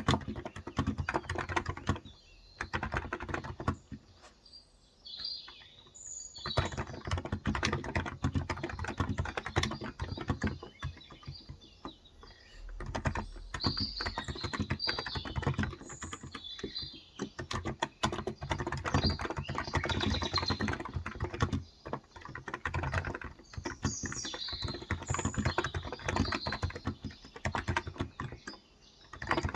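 Typing on a Cox Endeavor contactless (electrostatic capacitive) tenkeyless keyboard with 35 g switches. It comes in quick runs of keystrokes broken by a few short pauses. Birds chirp now and then behind the typing.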